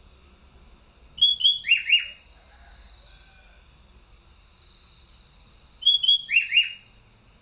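Sooty-headed bulbul (kutilang) singing two short, loud phrases, one about a second in and one near the end, each a quick run of about four downward-sliding whistled notes.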